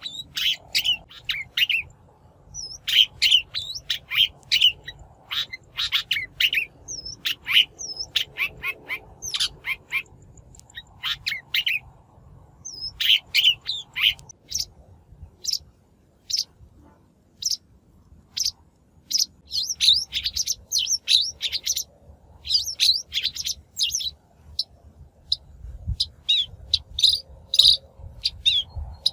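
Shrike lure recording: phrases of rapid, sharp chattering calls with brief pauses between them, one pause of about two seconds near the middle.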